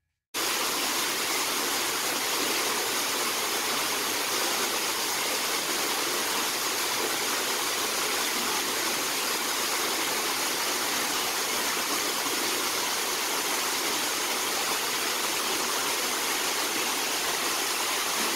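Steady, even rushing noise like running water, starting abruptly just after the speech ends.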